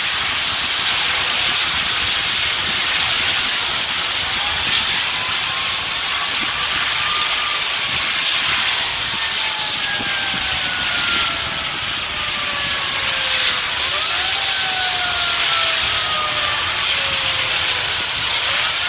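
Compressed natural gas from a burning CNG garbage truck escaping with a loud, steady hiss, a sign that the fire has breached the gas line. A siren's slow wail rises and falls underneath.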